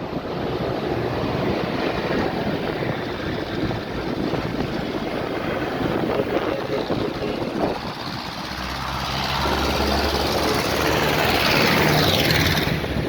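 Tractors driving past one after another with their diesel engines running; one comes close and passes near the end, its engine note getting louder and then shifting in pitch as it goes by.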